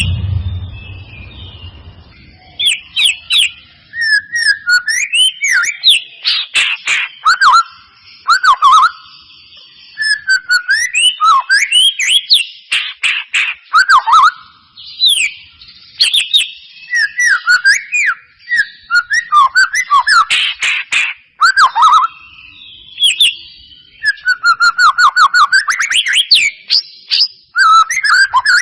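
White-rumped shama singing a loud, varied song of whistled notes that glide up and down, mixed with rapid clicking chatter, in phrases broken by short pauses. This is lure song (pancingan), played to provoke captive shamas into singing.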